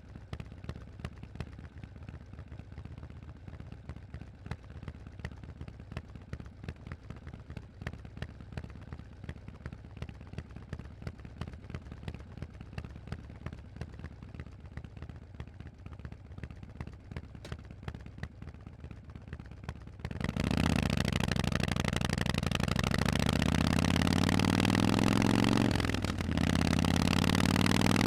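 Harley-Davidson Forty-Eight's air-cooled V-twin with Vance & Hines exhausts idling with a steady, pulsing beat. About 20 seconds in it opens up and pulls away, the pitch rising, then drops briefly at a gear change near the end before climbing again.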